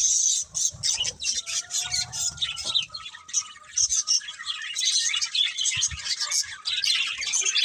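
Budgerigars (budgies) chattering and chirping in a continuous stream of quick, high, overlapping notes.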